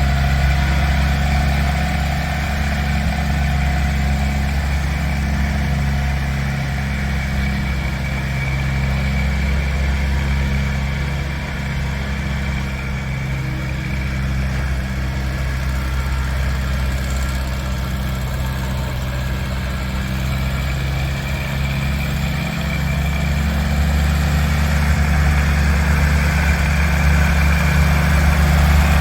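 Allis-Chalmers CA tractor's four-cylinder engine running steadily at idle.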